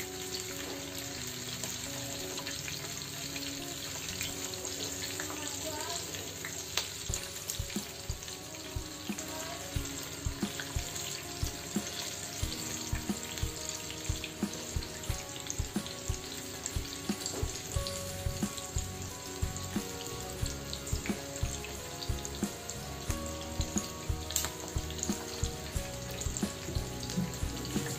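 Batter-coated green chillies deep-frying in a small pan of hot oil: a steady sizzle with frequent crackles and pops, which become more frequent from about ten seconds in.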